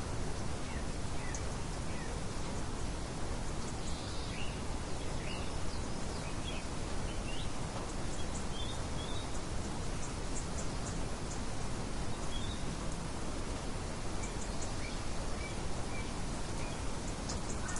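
Nature ambience of small birds chirping: scattered short chirps over a steady, even background hiss.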